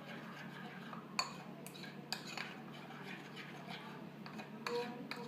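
A utensil scraping and clinking against a dish while sauce is spread and mixed into batter, with a few sharp clinks between one and two seconds in and another near the end.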